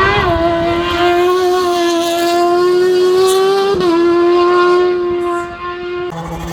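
Race car engine running at high revs, its pitch climbing slowly and then dropping sharply at a gear change about four seconds in before holding steady again.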